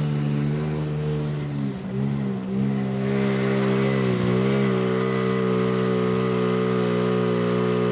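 Engine of a small belt-driven vehicle running at a steady speed. Its pitch dips and comes back up about two seconds in, then holds steady with a slight waver.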